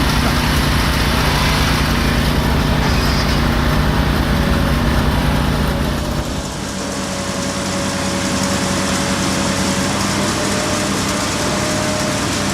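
A construction machine's engine running steadily, its sound changing about six seconds in.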